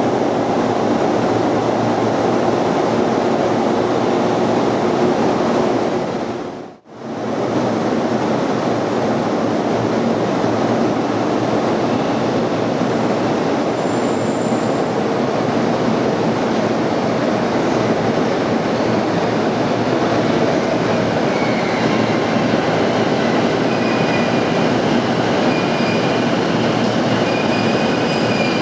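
JR commuter electric trains moving through an underground station: first a 205-series set, then, after the sound dips out briefly about seven seconds in, an E233-series set. Both give a steady rumble of wheels on rail, with faint high squeals in the last several seconds.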